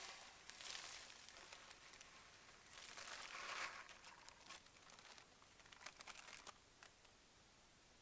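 Faint crinkling and rustling of something being handled, in two bursts about a second long, with scattered light clicks.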